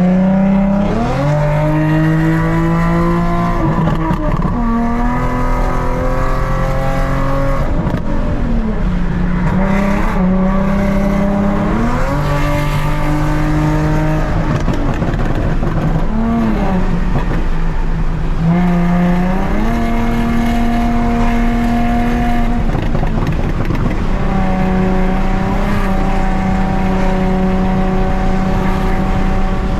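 Straight-piped Nissan 370Z's 3.7-litre V6 accelerating through the gears: the exhaust note climbs in pitch and drops sharply at each upshift, several times over, then holds a steady pitch while cruising.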